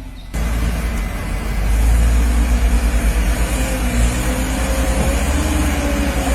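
A motor vehicle's engine running, a steady low rumble that comes in suddenly just after the start.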